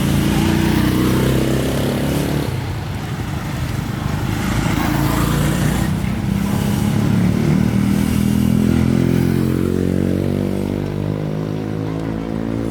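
A motorbike engine running close by, its pitch rising and falling several times as it is revved and eased off.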